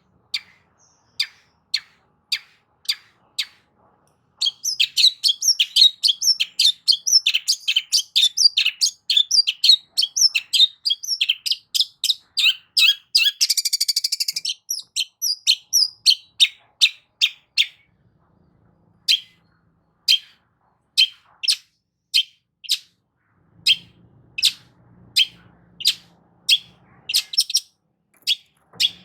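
Long-tailed shrike (cendet) singing: a few sharp, high notes about twice a second, then about four seconds in a fast, dense chattering run that lasts some fourteen seconds. After a short pause it goes on with single sharp notes about once a second.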